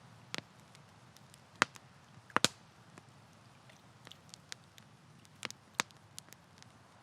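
Wood campfire crackling: scattered sharp pops and snaps over a faint low hiss, with the loudest pops about one and a half and two and a half seconds in.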